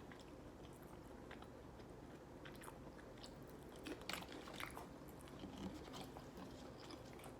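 Faint close-up chewing of McDonald's Chicken McNuggets, with soft, irregular crunchy clicks that come thicker about halfway through.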